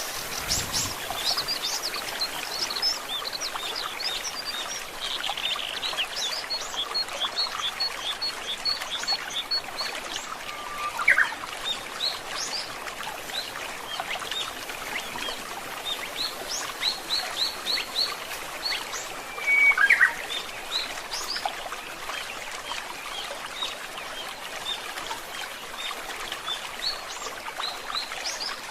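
Forest stream trickling steadily, with many small birds chirping and calling over it, including a quick run of repeated high notes early on and two louder sweeping whistled calls, one about a third of the way in and one about two-thirds in.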